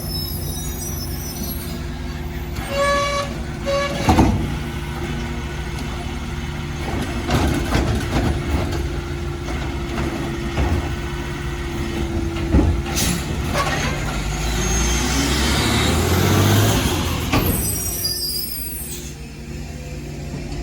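Garbage truck's diesel engine running, with scattered knocks and clanks and two short beeps about three seconds in. The engine revs up around fifteen seconds in.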